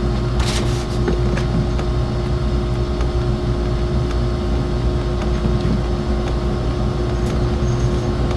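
Steady machine hum, low and even with one constant tone through it, with a few faint clicks or taps above it, one about half a second in and another near the end.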